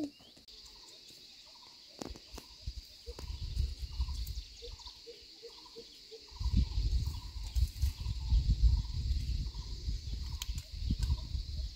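A bird calling over and over in short notes, about two a second, over a steady high insect drone. From about six seconds in, a low rumbling noise is the loudest sound.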